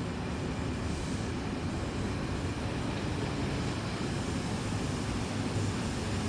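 S-set electric suburban train at the platform, a steady low rumble.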